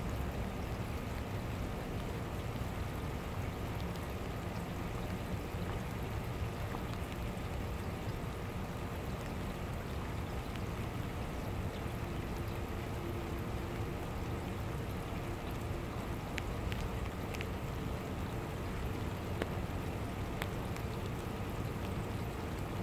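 Steady rain falling, an even hiss with scattered sharp drop ticks over a steady low rumble.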